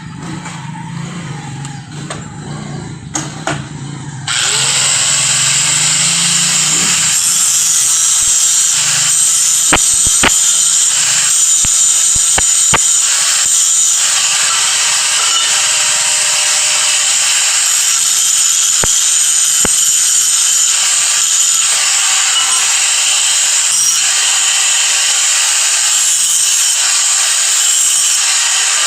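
A power tool working a material, with a lower hum at first, then about four seconds in a loud, steady, hissing grind that goes on to the end, with a few sharp clicks.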